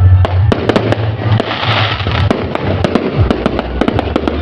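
Fireworks and firecrackers going off in rapid succession: many sharp bangs and pops close together, with a hissing burst near the middle and a low rumble underneath.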